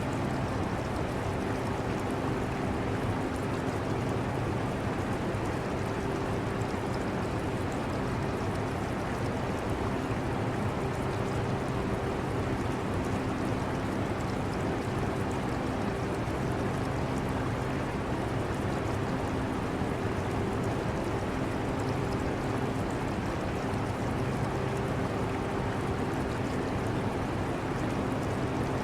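Air conditioner running with a steady whooshing hum, blended with the continuous trickle and bubbling of aquarium water.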